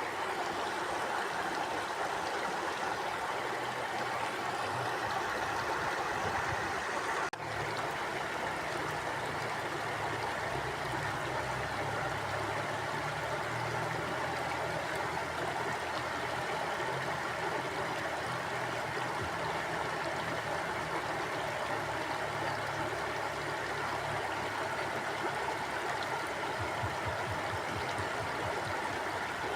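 Mountain stream flowing steadily, a continuous rush of running water, with a brief dip in level about seven seconds in.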